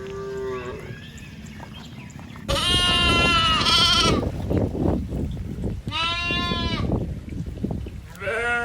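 Goats bleating: three high, wavering bleats, the first about two and a half seconds in, over a steady rustling background noise. A shorter, lower animal call sounds at the very start.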